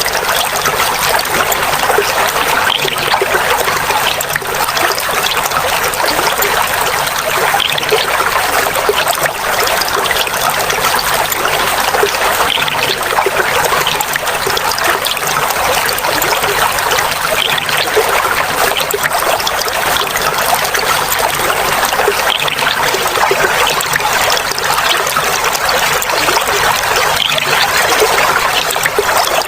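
Clear running water trickling and babbling steadily, without a break.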